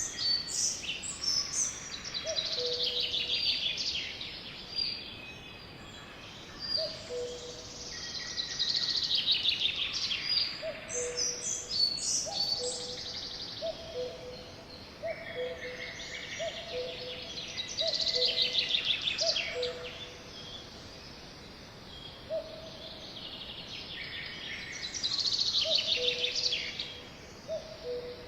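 Birdsong: a songbird sings a fast, falling trill of about two seconds, again and again, every several seconds. Under it a second bird gives a low two-note hooting call over and over, most steadily through the middle.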